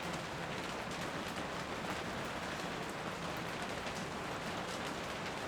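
Steady rain falling, with scattered individual drops ticking through the hiss.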